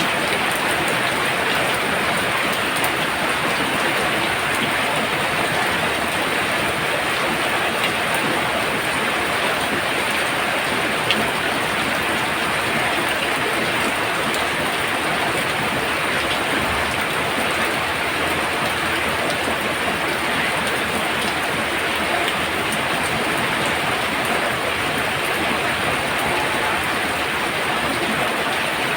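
Heavy rain pouring down steadily, an even hiss of many drops with no let-up, and one louder drop about eleven seconds in.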